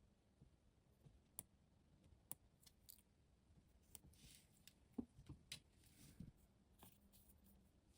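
Faint scattered clicks and a couple of short scraping sounds, the small handling noises of tools and tiny parts being worked by hand.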